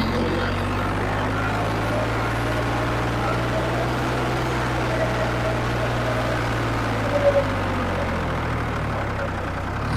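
Farmtrac 55 tractor's diesel engine, rebuilt with Farmtrac 60 T20 pistons and a modified injection pump, idling steadily.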